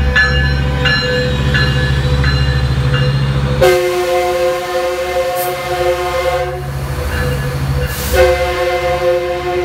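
Metrolink commuter train pulling out, with its F125 diesel locomotive's engine running and its bell ringing about once every 0.7 s. Then come two long horn blasts: one about three seconds long, and a second one starting near the end. Two long blasts is the signal that the train is releasing brakes and proceeding.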